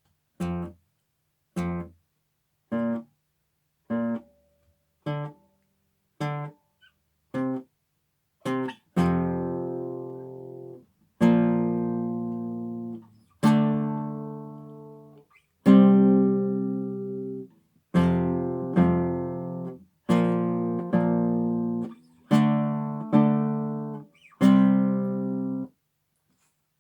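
Acoustic guitar strumming chords in time. First come about eight short, damped strums roughly one a second. Then, from about nine seconds in, come fuller chords left to ring and fade for about two seconds each, some restruck partway through.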